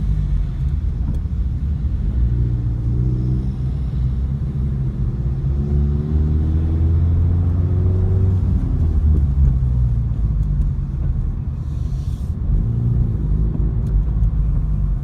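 Car engine running with a loud, deep rumble, its pitch climbing several times as it is revved up.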